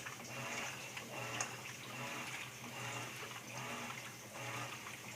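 Whirlpool 14 kg digital washing machine agitating a load: water sloshing with the motor's hum swelling and easing in a regular cycle about once a second. The wash action is slow and weak, which the owner says is not normal.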